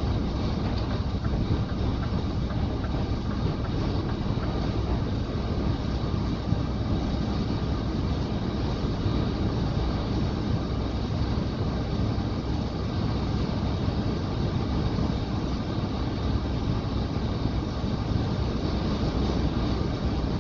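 Steady road and engine drone of a Scania tanker truck driving along, a constant low rumble with a lighter hiss above it.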